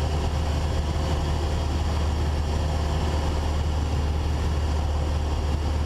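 Steady cabin drone of a Cessna 172's piston engine and propeller in cruise flight, a constant low hum with rushing noise over it.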